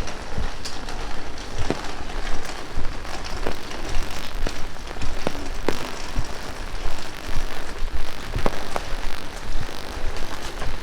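Heavy rain falling steadily on the street and nearby surfaces, with many sharp individual drop impacts close to the microphone.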